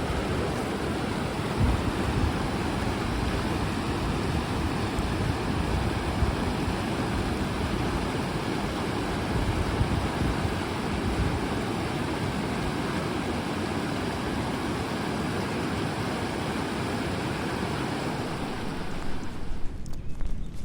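Steady rush of fast-flowing river water tumbling over falls. About a second before the end it cuts away, and a few sharp knocks follow.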